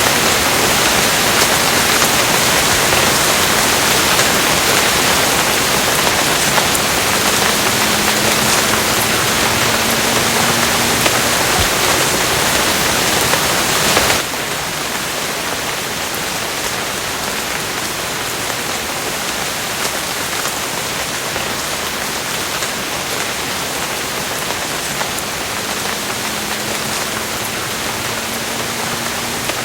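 Steady heavy rain falling, a dense even hiss of drops; about halfway through it suddenly becomes a little quieter and stays so.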